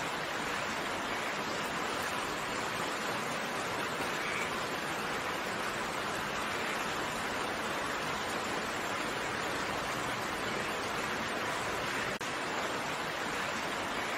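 Steady rain, an even hiss of falling drops with no separate drips or thunder standing out, briefly dipping for an instant near the end.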